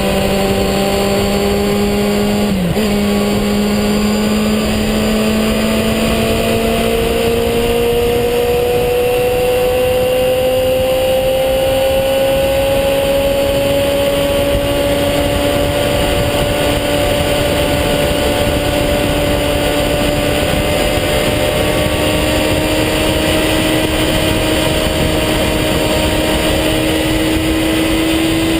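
A vehicle engine running under way, its pitch climbing slowly and steadily as it gathers speed, with a brief dip about three seconds in. Loud, steady wind rush hits the microphone throughout.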